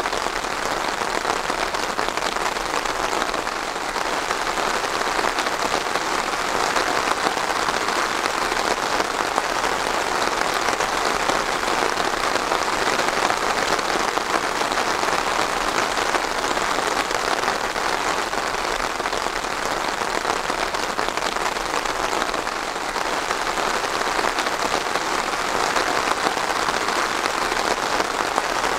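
Steady rain falling and pattering on surfaces, an even dense hiss of many drops with no let-up.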